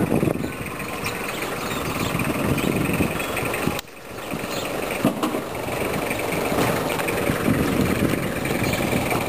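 A motor vehicle running, with a steady mix of engine and road noise. It drops out briefly about four seconds in, then carries on.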